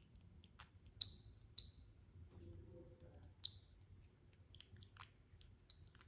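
A pet bird giving short, sharp high chirps, the two loudest about a second in and half a second later, then two more spaced out, with soft clicks scattered between them.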